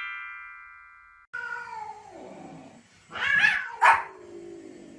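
A short bell-like chime fades out and stops about a second in. Then a dog gives a long whine that falls in pitch, barks sharply twice, and whines again.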